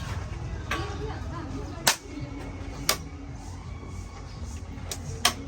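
Several sharp knocks at irregular intervals, the loudest about two and three seconds in and two more near the end, over a steady low hum.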